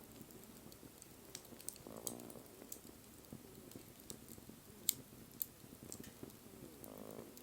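Wood fire burning quietly, crackling with scattered sharp pops; the sharpest pop comes about five seconds in. A faint short pitched sound is heard twice, about two seconds in and near the end.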